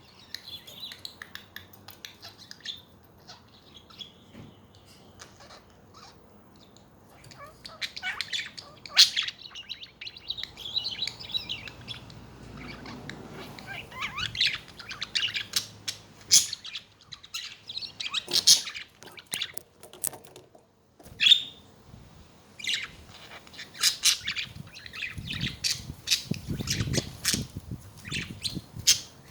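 Pet budgerigars chirping and chattering, with short, sharp squawks. The calls are sparse at first and grow busier from about seven seconds in.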